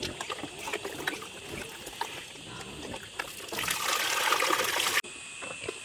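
Water trickling, with scattered small clicks and knocks, and a louder rush of splashing water for about a second and a half that cuts off suddenly.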